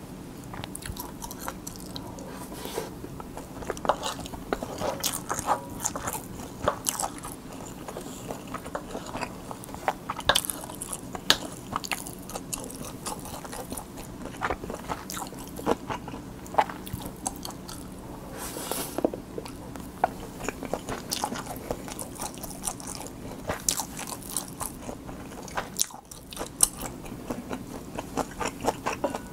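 A person chewing mouthfuls of spam kimchi fried rice with a fried quail egg close to the microphone, making many short, irregular wet clicks and crunches.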